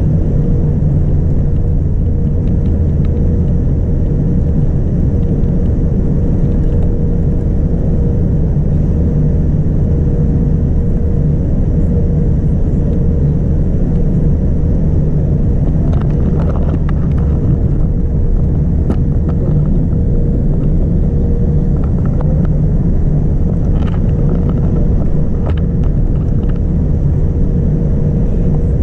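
Steady low rumble of cabin noise inside a Boeing 787-9 airliner, with a faint steady hum over it and a few light ticks.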